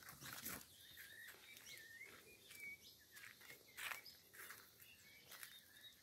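Near silence outdoors, with faint birds chirping in the background and a few soft rustles.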